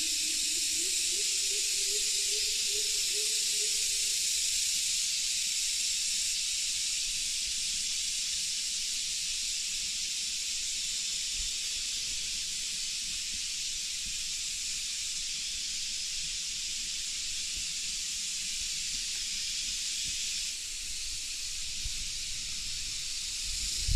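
Steady rain falling in a forest, a dense, even high hiss. There are a few low thumps near the end.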